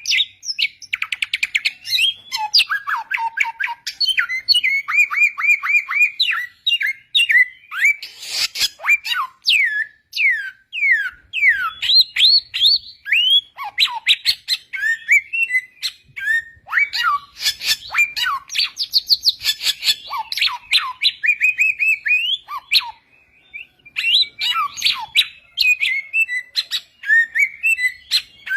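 Samyong bird singing a long, varied song of rapid chirps, trilled runs and whistled slurs that sweep up and down, with a brief pause near the end.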